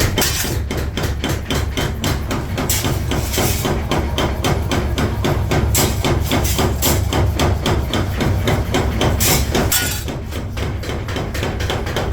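Steel being hammered in quick, even blows, about five a second, during trowel forging, over a steady low drone.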